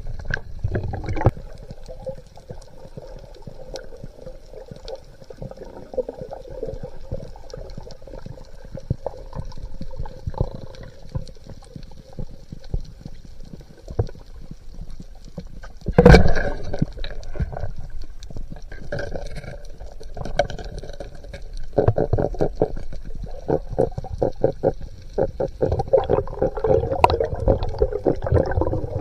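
Underwater ambience picked up by a submerged camera: continuous crackling and clicking with irregular low rumbles, a single sharp, loud knock a little past halfway, and denser crackling towards the end.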